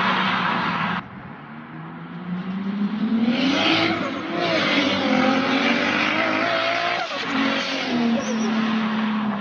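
Turbocharged Toyota Supra straight-six engine and exhaust running hard at high revs. It drops off sharply about a second in, climbs back up in pitch, and holds steady, easing for a moment about seven seconds in.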